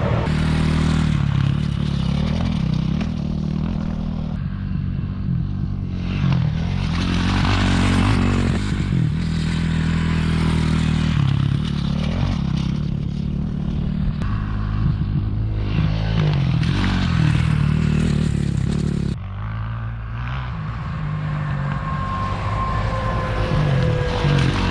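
Dirt bike engine revving up and easing off again and again as the bike is ridden, with rattling and scraping noise over it. About three-quarters of the way through, the engine sound drops suddenly and then builds back up.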